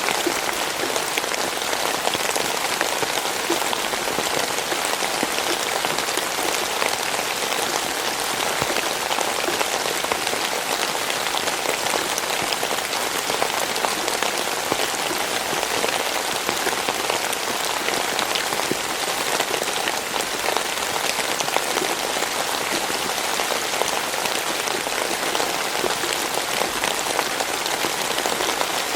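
Steady rain falling, a dense patter of many drops hitting a surface, unchanging throughout.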